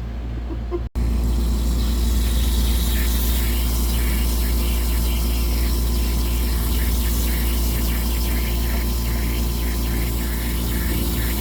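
A steady motor running, a loud even drone with a constant hiss over it, starting after a brief cut about a second in.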